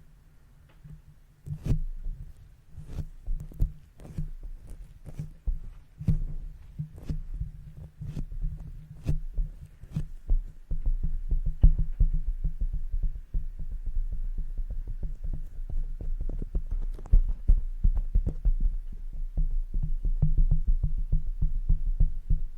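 Makeup brushes tapped and brushed directly on a microphone: low, muffled thuds under many sharp, scratchy taps, starting about a second and a half in and coming thicker and faster from about halfway through.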